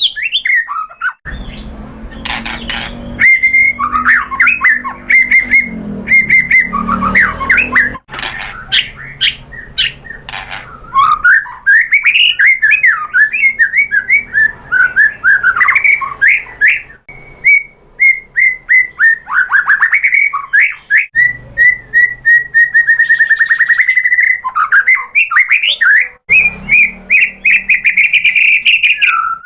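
White-rumped shama (murai batu) singing a long, varied song of rapid whistles, trills and chattering phrases with only brief pauses.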